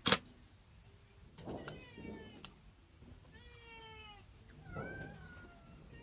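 A domestic cat meowing three times, the middle meow long and drawn out. A single sharp click or knock sounds at the very start.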